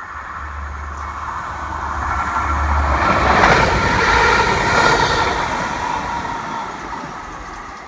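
Class 175 Coradia diesel multiple unit passing at speed: a low engine drone as it comes in, then wheel and rail noise that builds to a loud peak in the middle and fades as it draws away.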